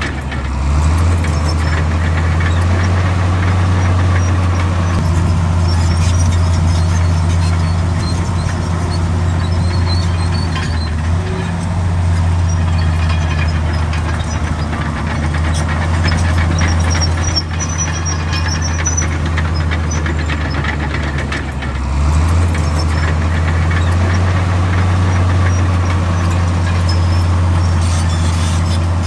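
Komatsu D65 bulldozer's diesel engine working under load, a steady low drone that rises about a second in, sags briefly near the middle and again a little past two-thirds of the way through, then pulls back up.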